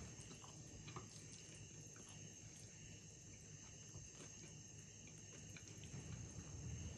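Faint eating sounds: wet mouth noises of chewing spicy noodles and a few small clicks of chopsticks in the bowl, over a steady faint high whine.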